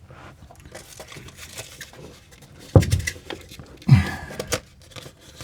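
Light handling noises, small clicks and rustling, with one sharp knock a little under three seconds in and a short low grunt-like sound about a second later.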